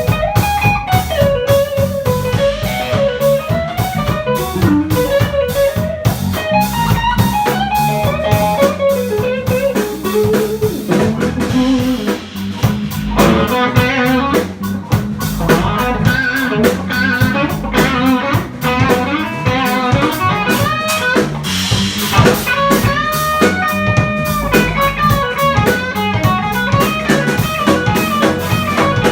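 Live jazz combo of electric guitar, piano, bass and drum kit playing: a single-note guitar line over a steady cymbal beat, with fuller chords coming in about halfway through.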